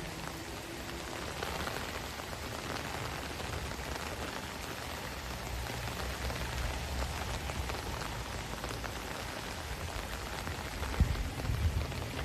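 Heavy rain falling steadily, a dense even hiss, with a few low thumps near the end.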